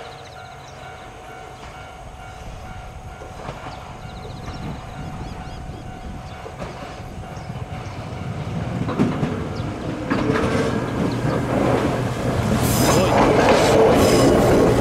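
Iga Railway electric train approaching, its rail noise growing steadily louder, with wheels clattering over the rail joints as it draws close in the last few seconds.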